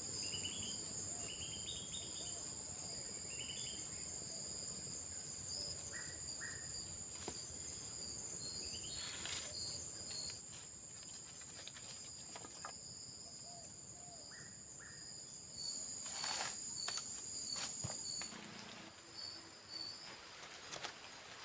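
Forest insects droning steadily in two high tones, stopping near the end, over a low background hiss. Short chirps come in the first few seconds, and a few sharp knocks fall around the middle and later.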